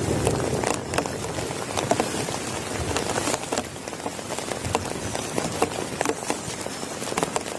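Heavy rain falling steadily, with many sharp individual drops tapping on a surface close by.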